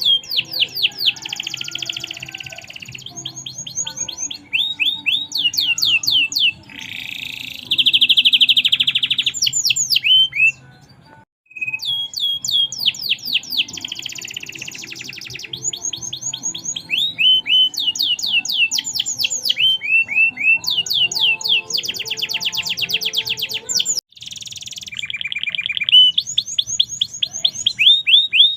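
Domestic canary singing vigorously: long, fast runs of repeated high chirps, each note a quick downward sweep, mixed with buzzy trills, with brief pauses about eleven seconds in and again near twenty-four seconds.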